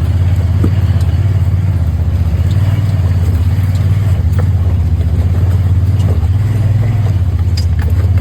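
Vehicle driving, heard from inside the cab: a loud, steady low engine and road drone with a few faint rattles.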